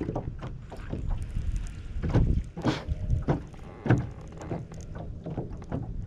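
Small jon boat on the water: irregular knocks and thumps against the hull, loudest about two and four seconds in, over a low rumble of wind on the microphone.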